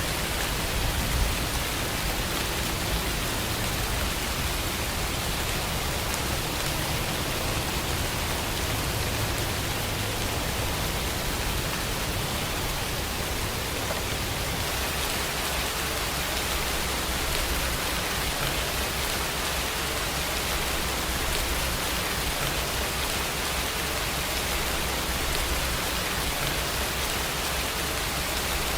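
Steady rain falling, an even, continuous hiss of many drops.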